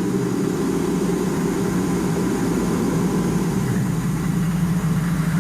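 A heavy engine running steadily at a constant speed, a low, even drone with no change in pitch; it cuts off abruptly at the end.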